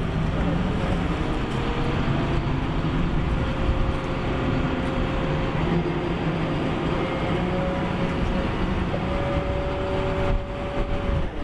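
Fishing boat's engine running steadily under way while towing another boat, a low, even drone with a faint higher tone that comes and goes over a rush of wind and water noise.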